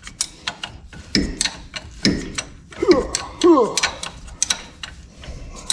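Hand ratchet wrench clicking in quick, uneven strokes as bolts on a truck's front wheel hub are worked by hand. A couple of short falling vocal sounds come about three seconds in.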